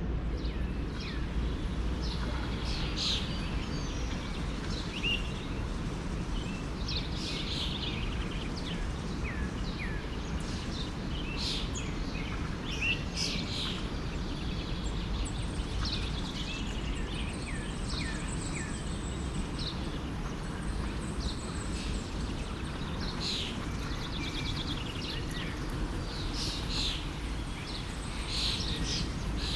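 Forest stream flowing with a steady low rush, while birds chirp and call repeatedly throughout in short, high notes.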